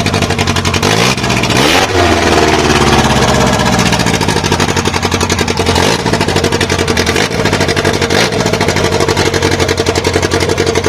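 Toyota 2E 1.3 four-cylinder engine on twin Weber DCOE 40 carburettors and a 292 cam, running on its first start. It is revved briefly about two seconds in, then settles back to a steady idle.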